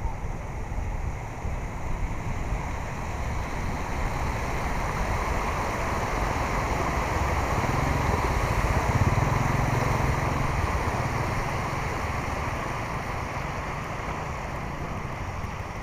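River water rushing steadily, growing louder toward the middle and then easing, with a low rumble underneath.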